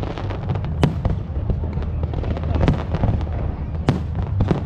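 Aerial fireworks display going off: irregular sharp bangs and crackles, a few standing out loudest, over a continuous low rumble of shells bursting.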